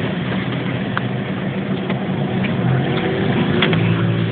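Car running at low speed with engine hum and tyre and road noise, plus a few scattered short knocks and rattles as it travels over a badly earthquake-damaged road.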